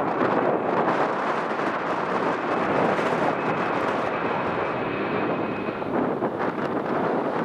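Jet airliner's engines running as it passes near the airport, with a faint steady whine in the middle of the sound, mixed with wind buffeting the microphone.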